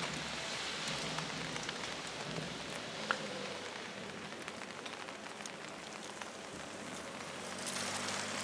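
Steady rain falling, with scattered ticks of drops landing close by and one sharper tick about three seconds in. The hiss grows louder just before the end.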